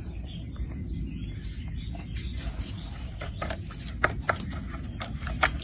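A bird working a fish with its beak: a scattered run of sharp clicks and taps over a steady low rumble.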